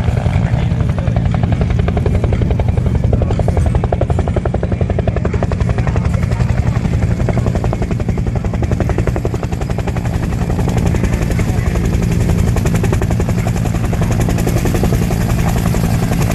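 Firefighting helicopter flying around, its rotor blades chopping in a fast, even beat with a steady engine noise underneath.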